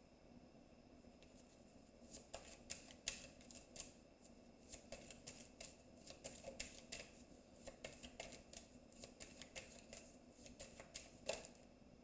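A deck of Lenormand cards being shuffled by hand: a run of quick, irregular soft clicks and flicks, with one louder snap near the end.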